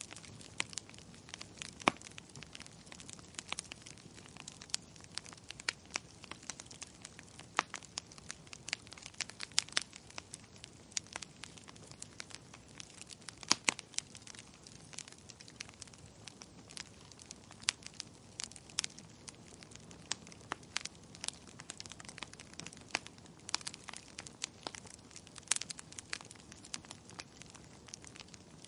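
Wood fire in a fireplace crackling and popping: irregular sharp snaps, several a second, over a low steady hiss of burning.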